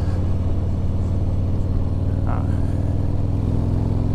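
Motorcycle engine running steadily at cruising speed, a low even drone from the rider's own bike.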